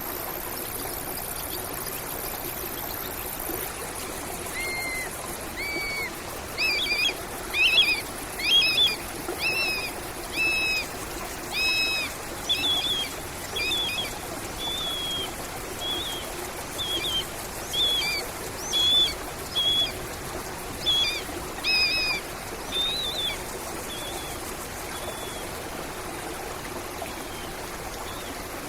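A bird calling a long series of short, clear notes, about one a second, starting a few seconds in and stopping a few seconds before the end. Underneath is the steady trickling rush of a stream.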